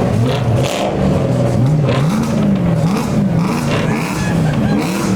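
Car engine revved in quick repeated blips, its pitch rising and falling about every half second.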